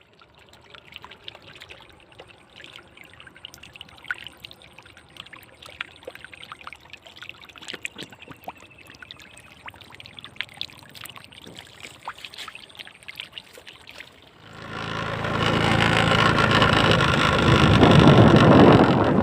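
Water trickling, with scattered small splashes and drips. About fourteen seconds in, a much louder steady rushing noise takes over.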